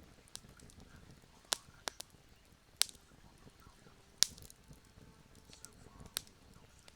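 Campfire crackling: irregular sharp pops and snaps from burning wood, with the two loudest pops about three and four seconds in.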